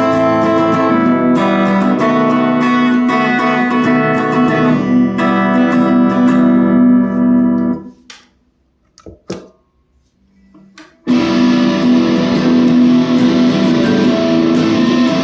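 Electric guitar distorted by a TC Electronic Grand Magus distortion pedal, a Reverend Charger HB on its bridge pickup into a Blackstar Debut 50R amp. The riffing is cut off sharply about eight seconds in, leaving a few seconds of near silence with a few faint clicks, then the distorted playing comes back in with loud sustained chords.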